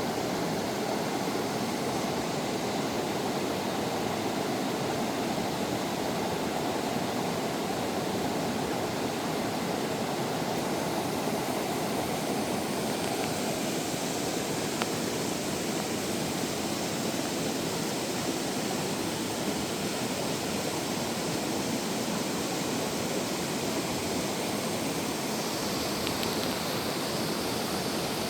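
Water of a mountain valley stream rushing, a steady, unbroken noise.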